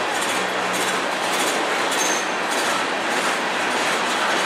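Freight train tank cars rolling past: a steady, loud rolling noise of steel wheels on the rails, with a short high-pitched wheel squeal about two seconds in.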